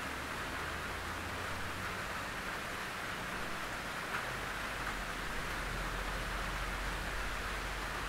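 Rain falling steadily on a tin roof: an even hiss of many drops on the metal sheeting, with a few louder single drops standing out.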